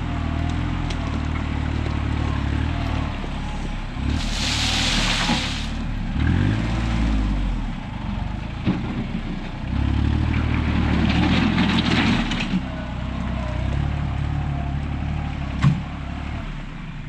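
A vehicle engine running, its speed rising and falling. There is a hissing burst a few seconds in, another rush of noise later, and a sharp knock near the end.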